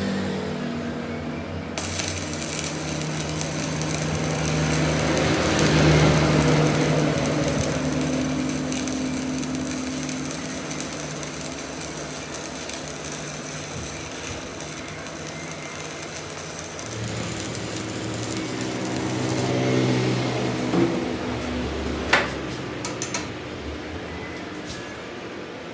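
Workshop machinery running with a steady hum that shifts in pitch and swells and fades twice, and a single sharp knock near the end.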